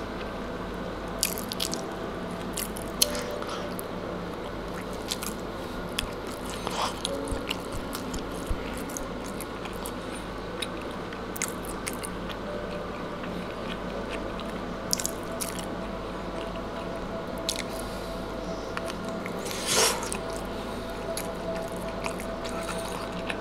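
A man chewing a mouthful of chicken tortilla wrap, with soft wet mouth clicks and squelches scattered through and one louder, longer mouth sound near the end.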